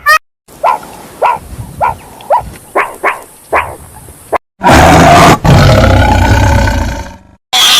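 Two different animals calling, one after the other. First comes a run of about eight short, sharp calls, each falling in pitch. After a sudden cut, a second animal gives a loud, harsh, drawn-out call lasting about three seconds.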